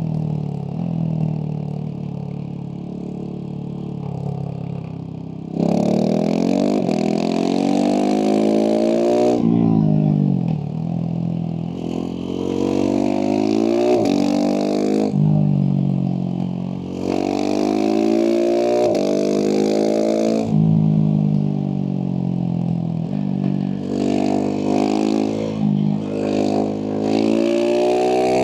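Husqvarna 701 SM single-cylinder engine through a Leovince slip-on exhaust, heard from the rider's position. It runs steadily at low revs at first, then about five seconds in pulls hard, revs climbing through several gears and dropping back on each shift and on closing the throttle. Near the end come several short throttle blips.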